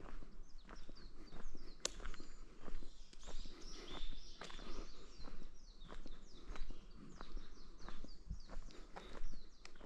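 Footsteps of a walker at a steady pace on a forest trail, with birds singing in quick, downward-sliding chirps.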